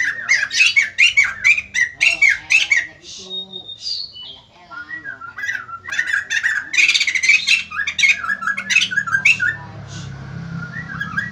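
White-crested laughingthrush calling in loud, rapid chattering runs, with a brief high whistled note about three seconds in, a short lull, then another loud run of chatter.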